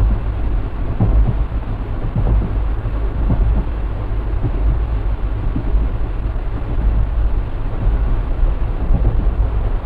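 Diesel-hauled passenger train running along the line, a steady low rumble of wheels on rails.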